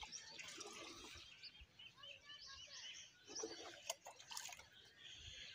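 Near silence with faint birds chirping and a few soft knocks, the sharpest about four seconds in.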